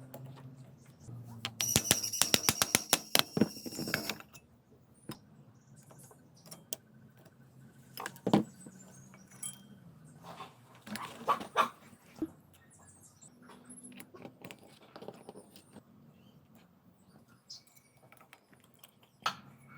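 Metal tools and engine parts clicking and knocking during an engine rebuild. A rapid run of sharp, ringing metallic clicks lasts about two and a half seconds, followed by scattered single knocks and taps.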